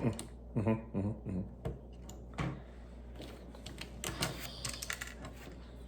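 Small plastic Lego pieces clicking and clattering as they are handled and pressed together: a quick run of light taps, busiest about four seconds in, after some brief talk.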